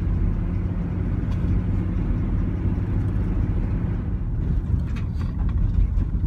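Steady low rumble of engine and road noise heard from inside a moving truck.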